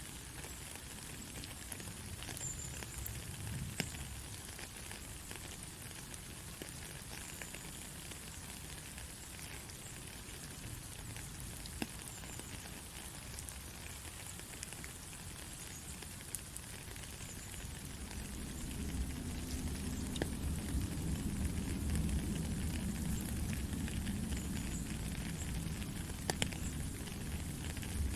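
Gentle rain: a steady high hiss dotted with sharp ticks of single drops. About two-thirds of the way through, a low rumble swells in underneath and stays.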